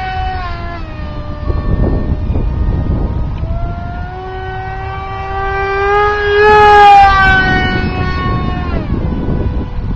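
Brushless electric motor and 6x4 propeller of an RC foam jet whining as it flies past. The pitch drops as it goes by near the start, then rises and swells to its loudest about two-thirds through before dropping again on the next pass. Wind noise on the microphone runs underneath.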